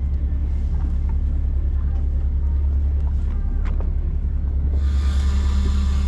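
Party fishing boat's engine running with a steady low drone. About five seconds in, a hiss of wind and water joins it.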